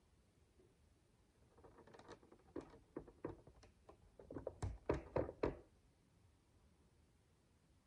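Micro building bricks clicking and tapping as they are handled and pressed together: a scattered run of small sharp clicks, thickest and loudest just past the middle.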